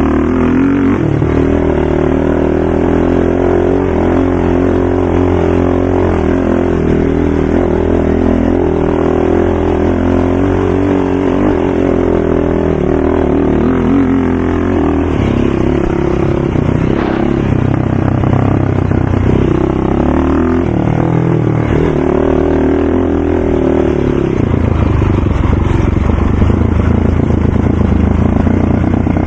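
ATV engine running and being ridden, its pitch rising and falling with the throttle.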